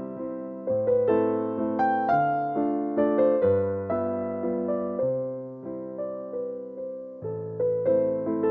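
Background music on solo piano: a slow waltz in A minor, each note struck and left to fade, with a low bass note under a moving melody.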